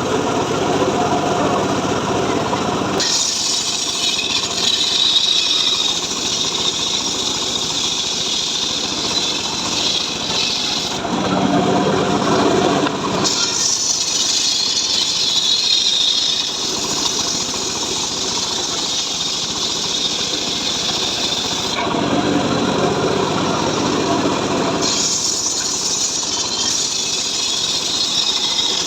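Homemade engine-driven sawmill ('gergaji srekel') sawing mahogany logs. The blade goes into the wood three times, each cut a long hissing rasp, with the machine running on its own in the short gaps between passes.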